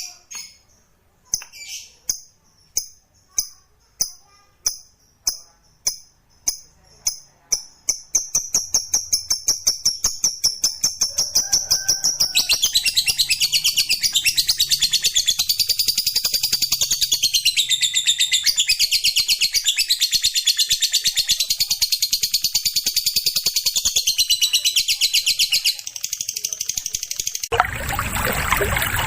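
Lovebird's 'ngekek' song. Separate sharp, high calls, about one and a half a second, speed up after about eight seconds into a long, fast, unbroken chattering trill of nearly twenty seconds. Near the end it gives way to a steady hiss like running water.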